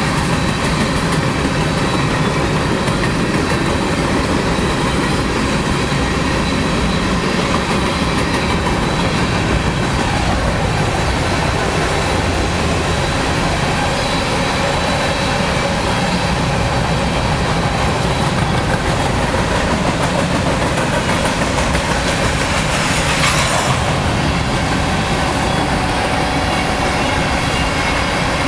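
Empty grain cars of a Norfolk Southern freight train rolling steadily past, a continuous loud rumble of steel wheels on rail with faint wheel-squeal tones. A short sharp sound stands out about three-quarters of the way through.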